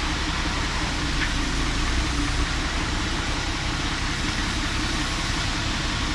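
Truck engine running steadily at idle, a low, even hum.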